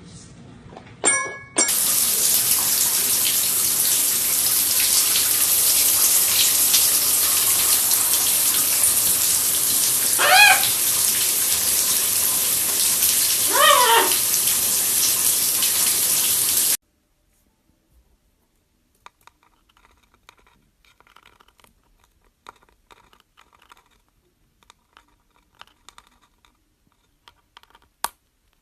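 Running tap water, a steady rush, with two short pitched bird calls over it; the water cuts off suddenly after about seventeen seconds, leaving only faint scattered clicks.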